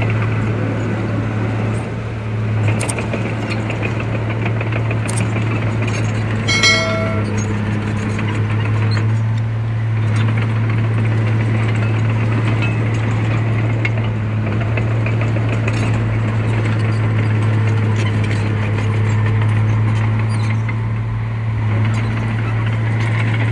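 Heavy diesel earthmoving machinery running steadily under load, with a constant deep engine hum. A brief high-pitched squeal cuts through about seven seconds in.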